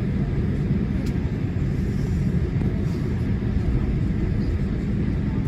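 Steady low rumble in the cabin of a Boeing 787-8 Dreamliner taxiing, from its engines and its wheels rolling over the taxiway, with a faint click about a second in.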